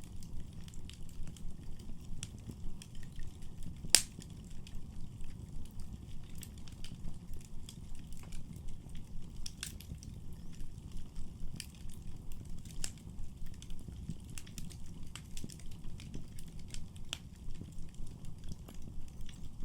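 Wood fire crackling in a fireplace: a steady low rumble of flames with scattered sharp snaps, and one loud pop about four seconds in.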